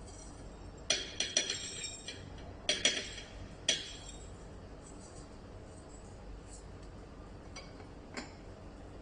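Light clinks of utensils and containers against a stainless steel press pot as loose tea leaves are put in: a quick cluster of clinks about a second in, two more near three seconds, one just before four, then a few fainter taps near the end.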